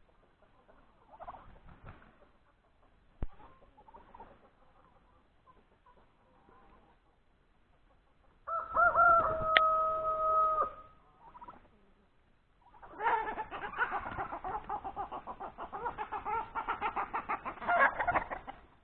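A rooster crows once, a held call about two seconds long, just before the middle. Then, a few seconds later, a long run of loud, rapid repeated calls from the domestic fowl lasts about five seconds.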